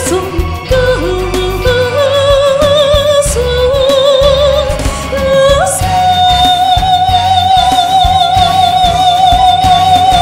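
Christian worship song: a singer with wide vibrato over a band with bass, rising a little past halfway to a long high note held to the end.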